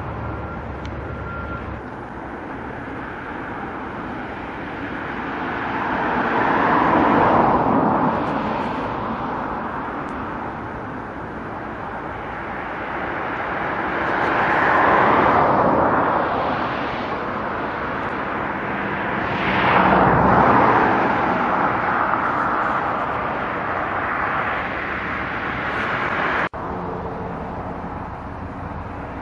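Trains running on an electrified main line: a broad rushing noise that swells and fades three times, about a quarter, half and two-thirds of the way through, then breaks off abruptly near the end to a quieter, steady outdoor background.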